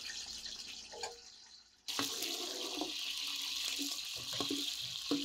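Steady sizzling of sliced onions frying in oil in a large pot over a wood fire. It starts abruptly about two seconds in, after a fading hiss.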